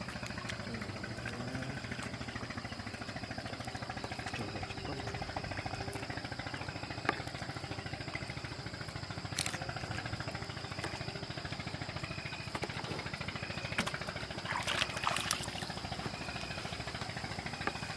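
A small boat engine running steadily, with a few short knocks and a brief clatter past the middle.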